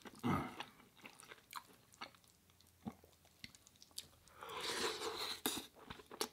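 A person chewing food close to the microphone, with scattered wet mouth clicks and smacks. A louder rush of noise lasts about a second, beginning about four and a half seconds in.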